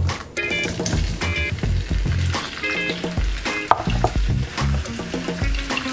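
Sliced chorizo sausage sizzling as it fries in hot olive oil in a skillet, with background music playing over it.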